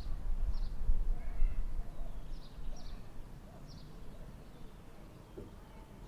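Small birds chirping: short, high chirps repeated every half second or so, over a low rumble that is loudest for the first two seconds and then dies down.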